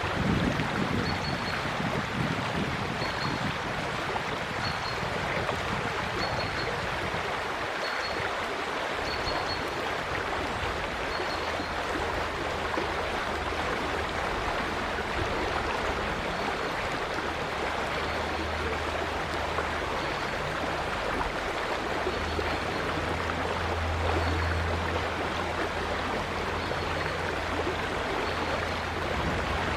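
River water running, a steady rushing sound, with a faint high bird call repeating about every second and a half. A low rumble swells in the second half.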